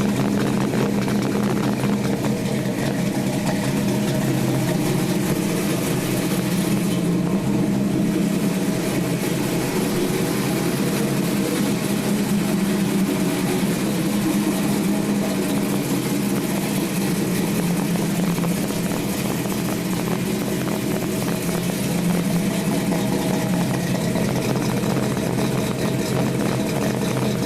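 Big-block Chevy V8 in a 1971 Nova SS idling steadily, warming up after a cold start.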